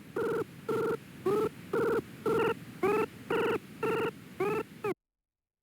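Electronic tones synthesized by the Desmos graphing calculator: a run of nine short, buzzy beeps with overtones, about two a second, several sliding up in pitch as they start. They stop abruptly about five seconds in.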